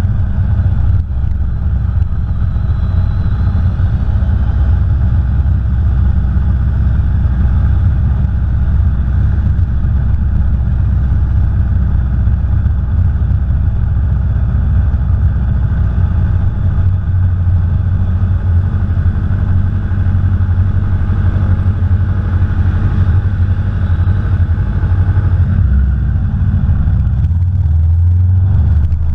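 Aprilia Tuono V4 Factory's V4 engine running hard as the motorcycle is ridden on a race track, loud and continuous. The low rumble shifts a little before the end.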